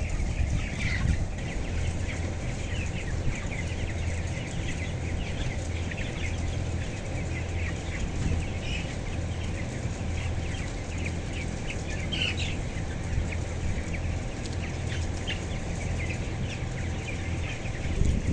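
A flock of broiler chickens peeping and chirping continuously, many short calls overlapping, over a steady low hum.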